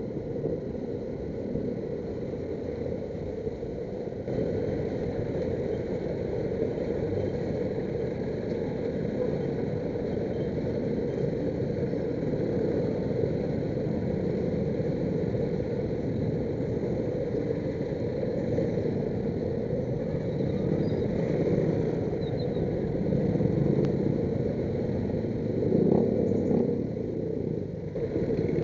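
Road traffic noise from cars and motorcycles in heavy rush-hour traffic: a steady rumble of engines and tyres that swells briefly near the end.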